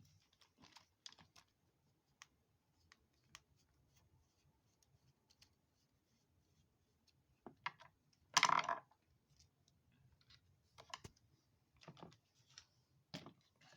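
Small plastic and metal parts of an RC crawler's front axle clicking and tapping as it is taken apart by hand, with one louder clatter about eight seconds in.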